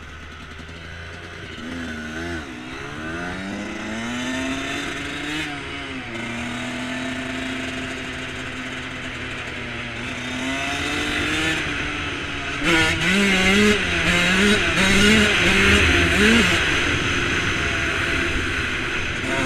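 Dirt bike engine revving on the throttle, its pitch rising and falling. In the second half it climbs in several quick steps with drops between them, as if shifting up through the gears, under a rushing noise that grows louder as it picks up speed.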